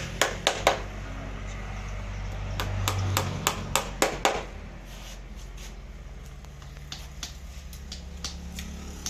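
Sharp knocks or taps in quick runs, several in a row near the start and another run in the middle, then fainter scattered taps, over a steady low hum.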